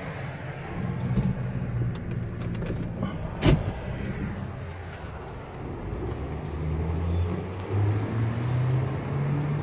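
A car's engine heard from inside the cabin as the car pulls away and drives off, its pitch rising in steps as it speeds up in the second half. A sharp knock comes about three and a half seconds in, with a few lighter clicks just before it.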